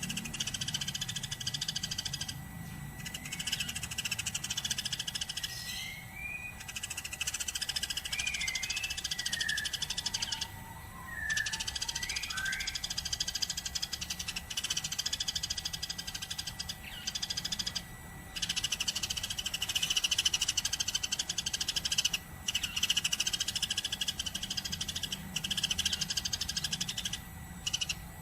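Eurasian tree sparrow chirping nonstop in fast, dense chattering runs broken by short pauses. A few faint sliding whistled notes come in about a third of the way through.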